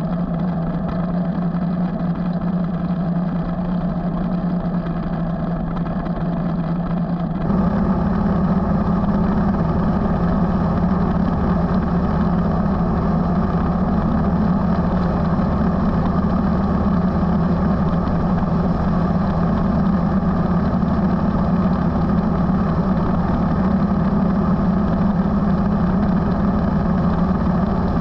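Motorcycle engine running steadily while riding, a constant low engine note with road noise. About seven seconds in the sound jumps abruptly louder and fuller.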